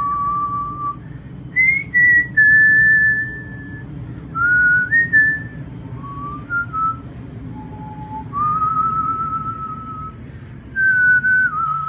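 A person whistling a slow tune: long held notes, each lasting a second or more, stepping from pitch to pitch, with short upward slides into several notes.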